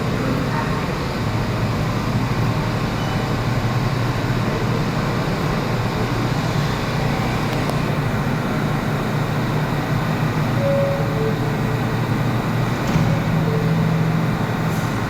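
Steady low rumble of a New York City Subway train in the station, with a few brief faint tones near the end, just ahead of wheel squeal.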